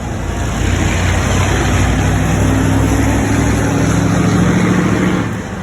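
Pratt & Whitney geared turbofan engines of an Airbus A321neo passing close by: loud, steady jet noise with a low droning hum that grows a little louder, then drops away sharply about five seconds in.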